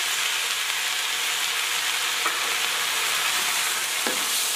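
Steady frying sizzle in a pan as sliced napa cabbage is stir-fried with tofu, tempe and chili, with a couple of light knocks from the stirring.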